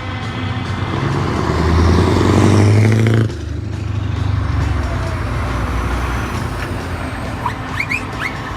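Truck engines running. One grows louder and rises in pitch from about a second in, then cuts off abruptly a little after three seconds, leaving a steadier rumble. A few short rising squeaks come near the end.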